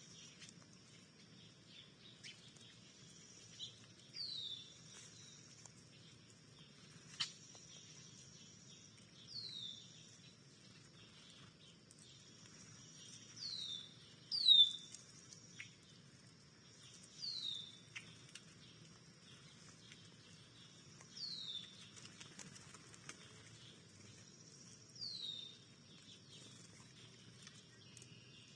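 A songbird repeating a single short, high, down-slurred call about every four seconds, over a faint steady high-pitched drone. A couple of sharp ticks stand out, the loudest about halfway through.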